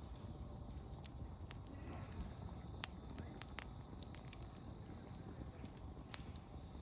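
Open wood campfire burning with a low steady rustle and a handful of sharp crackling pops from the firewood, the two loudest near the middle. Insects chirp throughout in an even, pulsing rhythm.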